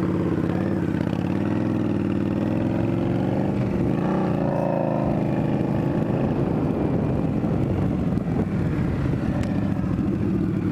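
Indian Scout Bobber's V-twin engine running under way, its pitch rising and falling a few seconds in as the rider works the throttle, then holding steady.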